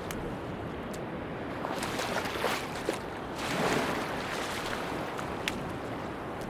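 Sea waves washing onto a beach under steady wind noise, with a wash swelling up about two and a half seconds in and again around three and a half seconds. A few faint, scattered clicks sound over the surf.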